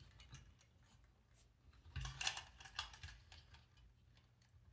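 Hard plastic robot parts being handled and pressed together: faint ticks, then a quick run of clicks and scraping about two seconds in as the tri-cap is seated into the body.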